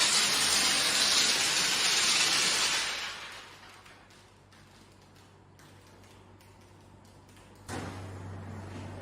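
Hand-held car wash sprayer hissing as it sprays water, cutting off about three seconds in. After a few seconds of quiet with faint clicks, a small electric motor starts up with a low, steady hum near the end.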